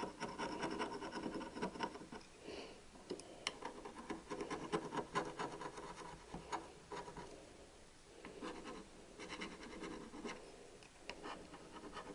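Carbon deposits being scraped off a Triumph Bonneville engine valve: a run of quick, rough scratching strokes, easing off briefly about two seconds in and again around eight seconds.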